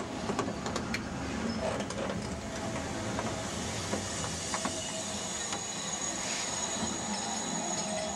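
A train rolling slowly: a steady rumble with scattered clicks and clanks of wheels and couplings, and a faint high squeal in the second half.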